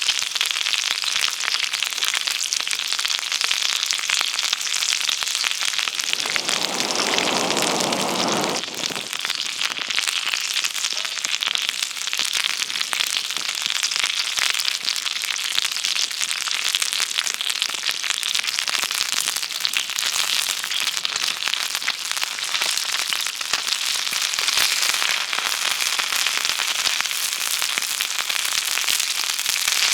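Campfire cooking: steady, dense crackling and sizzling, a thick stream of fine pops from the fire and the food over it. A lower rush of noise joins in about six seconds in and stops about three seconds later.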